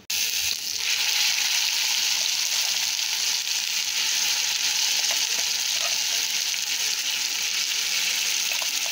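Ground onion-tomato masala paste sizzling in hot ghee and oil in a kadai, stirred now and then with a spatula. The sizzle starts suddenly as the paste goes into the hot fat, then holds steady.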